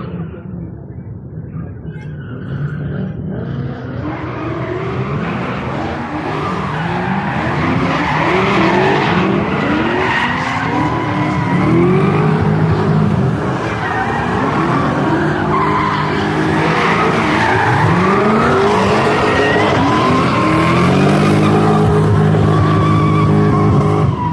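Drift car engine revving up and down in repeated sweeps while its tyres squeal and skid through slides. The sound grows louder over the first several seconds, then stays loud.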